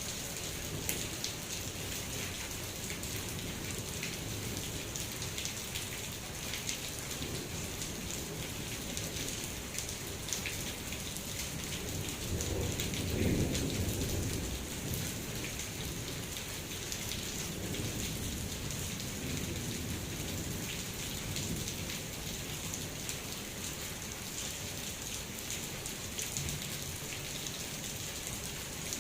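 Steady heavy rain pattering down, with a roll of thunder rumbling in about halfway through, swelling and fading over a few seconds.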